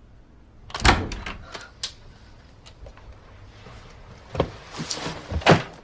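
A door being opened and shut: a sharp thud about a second in with a quick run of clicks, then more thuds and clicks near the end.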